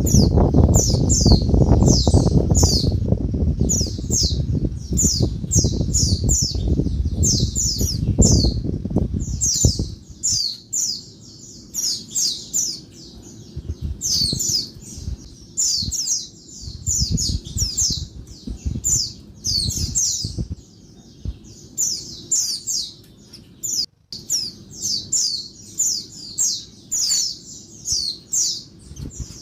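Female white-eye (pleci) giving a rapid, noisy chatter of short high calls, several a second, without pause. A low rumbling noise lies under the first ten seconds and stops abruptly.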